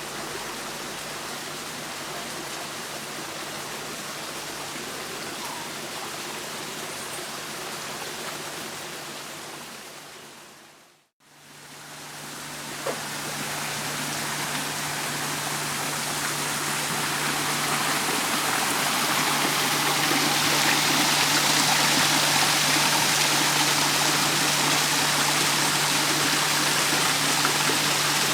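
Running water of a garden stream and waterfall, a steady rushing hiss. It fades out briefly about a third of the way in, then comes back and swells louder and brighter.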